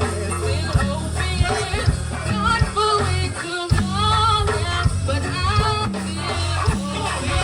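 Live gospel band playing, with a singing voice over steady drums and bass.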